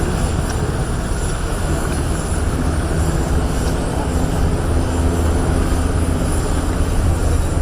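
Steady, loud rumble of aircraft engines, with a faint steady tone joining in about two and a half seconds in.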